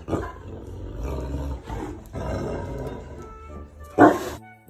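An animal calling over background music, with a loud sudden burst about four seconds in.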